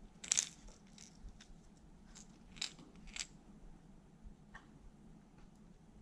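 Handling of plastic lure packaging and hard-bodied jerkbaits: a few scattered sharp plastic clicks and crackles, the loudest about a third of a second in, then several lighter ones over the next few seconds.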